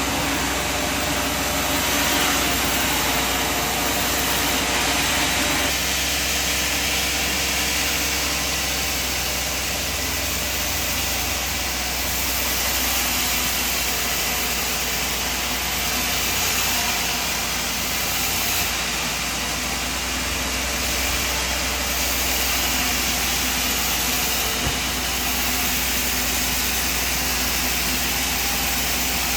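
Sawmill machinery running steadily, a continuous engine-like drone under an even hiss, which shifts in tone about six seconds in.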